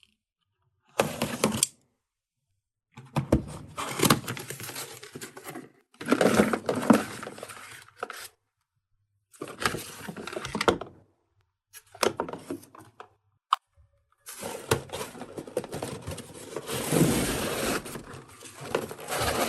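Small plastic toy packaging being unwrapped and handled: crackling crinkles and tearing with small clicks and knocks. It comes in about six short bursts with dead silence between them, and the last burst is the longest.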